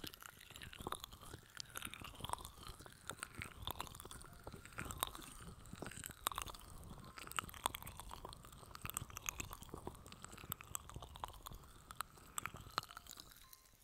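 Rapid close-mic scratching and tapping on the microphone: ASMR ear-massage triggers, a steady run of quick crackly scratches and clicks.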